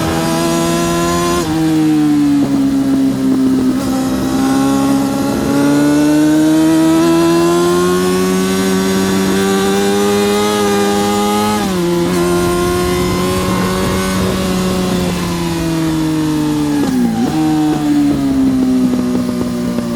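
Yamaha R6 (RJ03) 600cc inline-four sportbike engine running hard at high revs under race load. The pitch climbs slowly, drops sharply at upshifts about 1.5 s and 12 s in, and dips and recovers briefly near the end.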